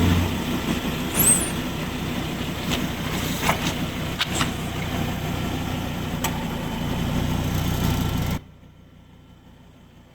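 A car running steadily, with a few sharp cracks over it, cutting off suddenly about eight seconds in.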